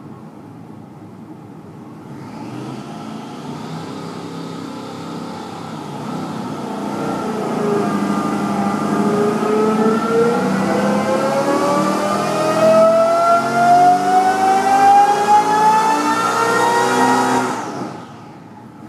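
598 cubic inch big-block Chevrolet V8 on an engine dyno making a full pull: after a few seconds at low speed its revs climb steadily for about ten seconds, getting louder as it goes, then the throttle closes and it drops back sharply near the end.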